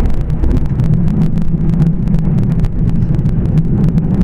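Steady running noise inside a Shinkansen passenger car: a low rumble and hum from the train on its viaduct, with faint quick ticks over it.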